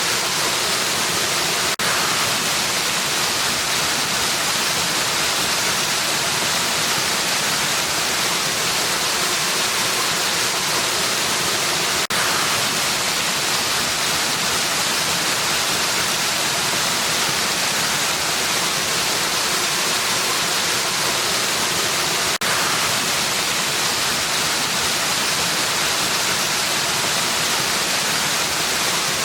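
Waterfall rushing in a steady, even hiss, strongest in the high range, with a brief dip in level three times, about ten seconds apart.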